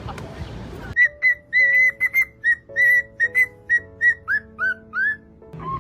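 A whistled tune of short, clear notes, some sliding upward, begins about a second in, over soft held chord notes.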